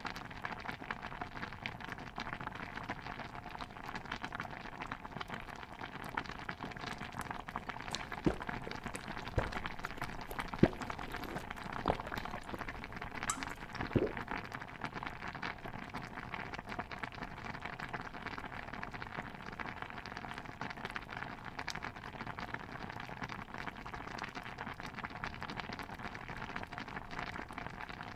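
Pot of stew bubbling steadily in a dense, crackling simmer, with a few sharp knocks near the middle.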